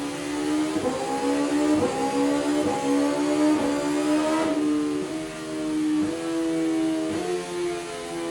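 BMW S1000RR inline-four sportbike engine running hard at high revs. Its steady exhaust note is broken briefly about once a second, the pitch stepping slightly between breaks.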